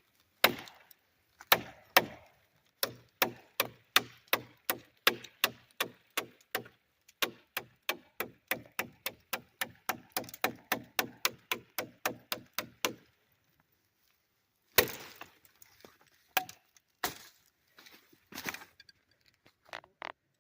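Maxace Vortex folding pocket knife chopping oak branches: a long run of sharp blade strikes into wood that quicken to about three a second, then stop about two-thirds of the way through. A few scattered knocks follow near the end.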